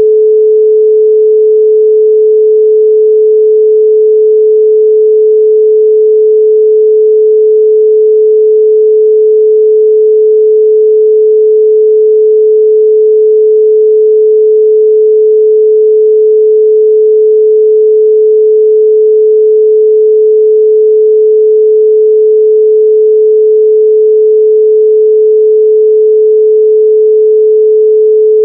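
A 432 Hz pure sine tone, electronically generated, held at one pitch and one level throughout.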